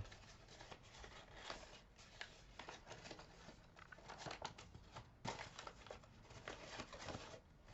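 Faint rustling and small irregular clicks of a sheet of paper being handled and unfolded.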